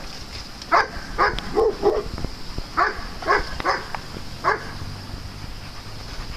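A dog barking: about eight short barks in quick twos and threes, stopping about four and a half seconds in.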